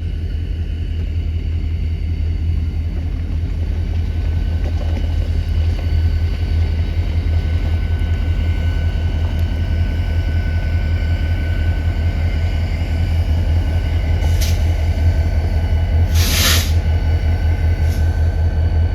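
Freight train's diesel locomotive running with a steady low rumble, faint high squealing tones over it, and a short burst of air hiss about 16 seconds in, typical of air brakes venting.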